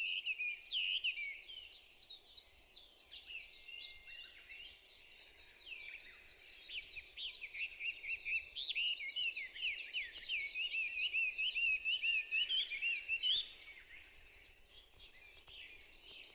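Several songbirds singing at once, with dense overlapping chirps and trills. Near the end one bird's rapid, repeated notes stand out, then the singing suddenly thins to fainter calls.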